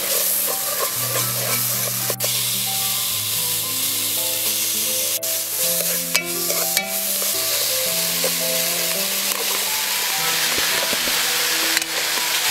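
Food frying in a large aluminium pot: a steady sizzle as green herb paste, meat and vegetables are stirred, with a metal ladle scraping the pot and a few sharp clicks. Background music with held notes changing about once a second plays under it.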